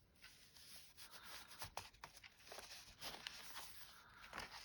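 Faint rustling and a few soft taps of paper and card as the pages and tucked-in elements of a handmade junk journal are handled and turned.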